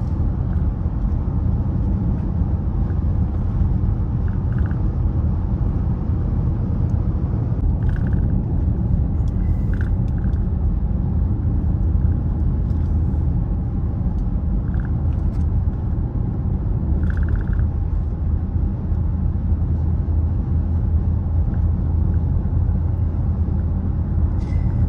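Steady low rumble of engine and road noise inside a moving vehicle's cab while driving on the highway.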